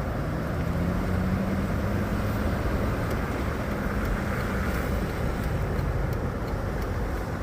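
Car driving, heard from inside the cabin: a steady low engine hum under road and tyre noise.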